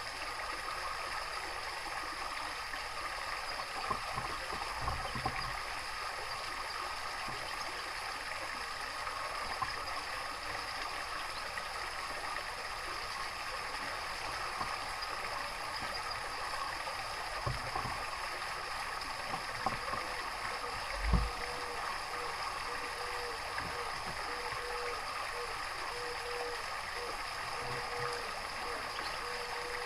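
Steady running water of a small garden stream, with a few soft low thumps, the loudest about two-thirds of the way through.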